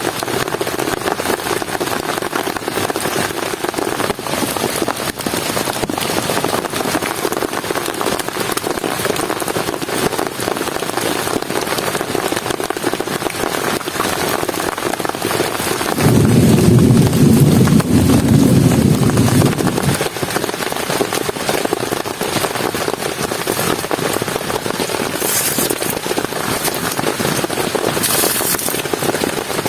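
Heavy rain falling steadily, with a loud low rumble of thunder starting suddenly about halfway through and lasting about four seconds.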